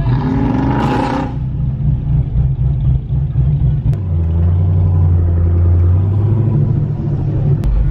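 Loud vehicle engines rumbling, with one revving up in pitch in the first second and a deep steady exhaust drone a few seconds later.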